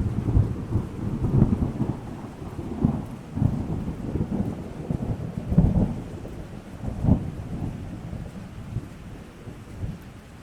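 Thunder rolling over steady rain: a deep rumble breaks in suddenly, swells in several peaks over the first seven seconds, then dies away, with the rain hiss beneath.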